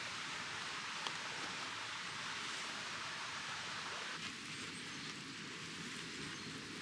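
Steady outdoor noise, an even hiss like wind in trees or running water, with one faint click about a second in.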